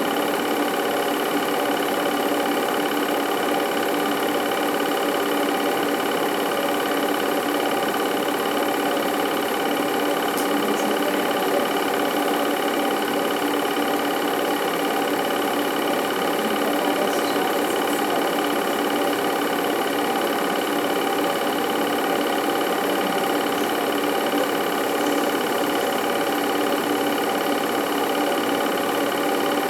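Film projector running: a steady mechanical whir and clatter with a constant hum, unchanging throughout.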